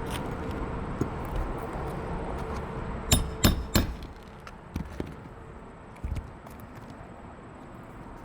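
Three sharp knocks in quick succession, about a third of a second apart, then a few lighter taps: work with a hand tool on an asphalt shingle roof. A steady hum underneath fades out just after the knocks.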